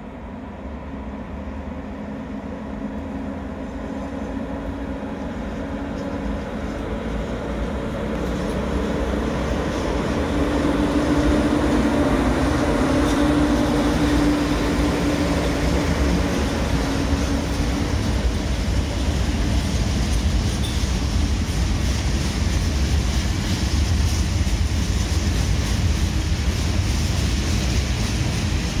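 PKP Cargo ET22 six-axle electric freight locomotive approaching and passing with a steady hum, growing louder until it comes level about a third of the way in. It is followed by the rumble and clatter of a long rake of open coal wagons rolling by.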